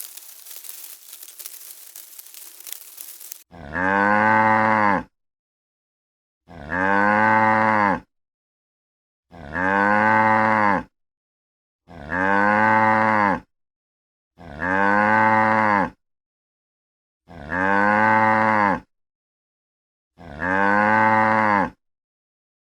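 Crackling, crinkling noise for the first few seconds, then a cow mooing seven times at an even pace. Every moo is about a second and a half long and sounds exactly alike, with complete silence between them.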